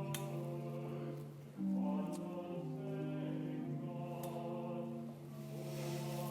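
Slow sacred music before Mass: sustained chords of held notes that move to a new chord every second or so.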